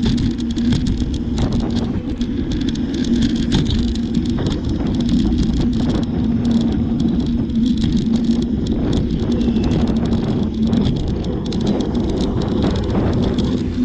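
A bicycle being ridden: a steady low rumble of riding noise with a constant hum and frequent small rattles and clicks.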